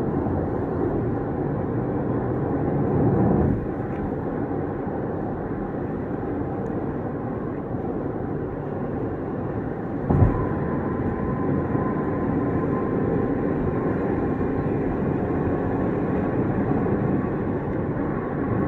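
Road and engine noise of a car driving along a highway, heard from inside the cabin: a steady rumble, briefly louder about three seconds in, with a single thump about ten seconds in.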